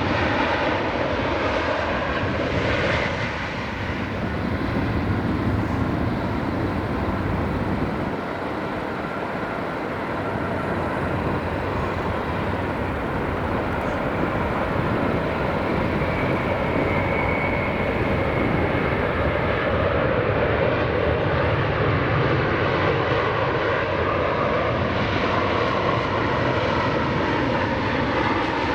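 Jet airliner engines running steadily on approach and landing, with slowly shifting engine tones: an Airbus A330-200 at first, then, after a cut about five seconds in, an Airbus A380-800.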